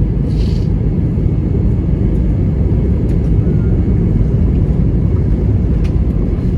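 Steady low cabin rumble of an Airbus A321-200 around landing: engine and airflow noise heard inside the passenger cabin.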